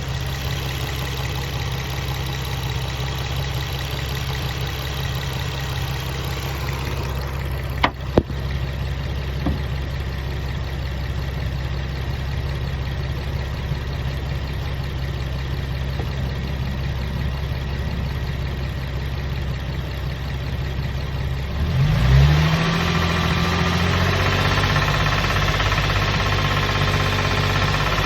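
Infiniti G35's 3.5-litre V6 idling with a rattling, knocking noise that an oil change has not cured; about two-thirds of the way through the engine is revved up and held at higher speed, and the rattle gets more intense. Two sharp clicks sound about a third of the way in.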